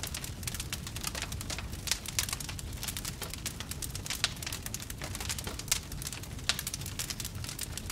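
Wood fire in a fireplace crackling steadily: dense small crackles with several sharper, louder pops, over a low steady rumble.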